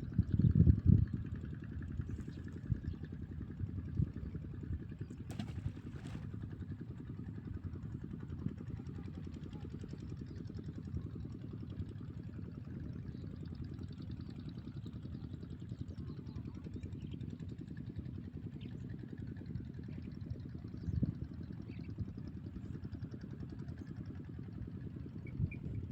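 Steady low rumble of wind buffeting the microphone, with a few louder thumps in the first second.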